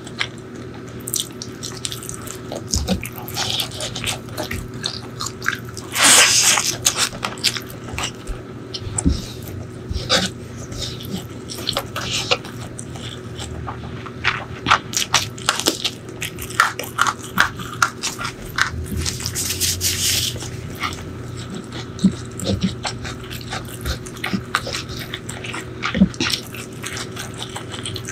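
Close-miked eating sounds of chicken liver and gizzard curry with rice: wet chewing, lip smacking and squishing, full of small clicks, with louder wet bursts about six seconds in and again near twenty seconds.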